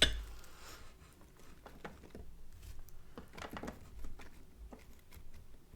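Close-up eating sounds: a sharp tap at the start, then scattered soft crunches of chewing hard taco shells.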